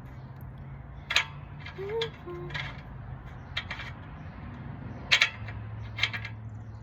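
Scattered sharp metallic clinks and taps, about six, spread a second or so apart, as the oil drain bolt is fumbled back into the riding mower's engine. A steady low hum runs underneath.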